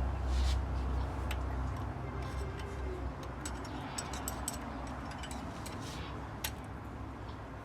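Irregular light metallic clicks and ticks of bolts and hand tools being handled on a ZF 8HP transmission's valve body, over a low rumble that fades during the first few seconds.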